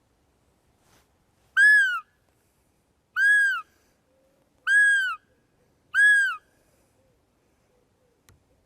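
An animal calling four times: short, high calls that each rise and fall in pitch, spaced about a second and a half apart.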